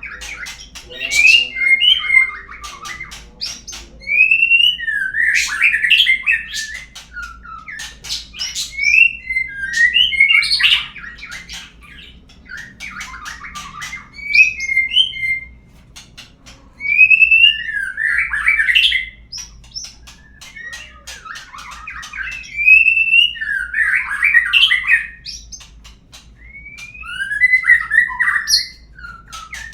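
Murai songbird lure song: loud phrases of rising whistles and rich warbling, one every few seconds with short pauses between, of the kind played to prompt a caged murai to sing.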